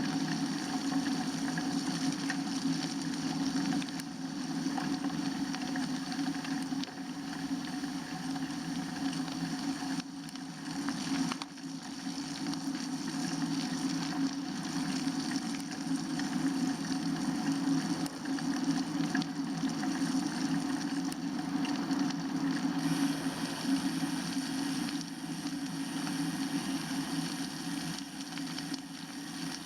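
Steady rushing noise of a bicycle being ridden on a wet, slushy road: tyres running through the slush, with a dip in level about eleven seconds in.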